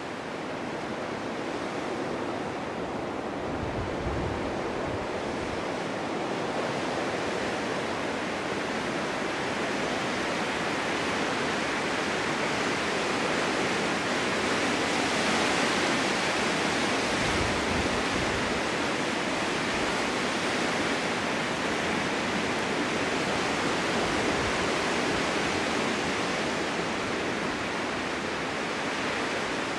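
Snowstorm wind blowing hard and steadily, swelling to its strongest about halfway through and easing a little after. Twice a gust buffets the microphone with a brief low rumble.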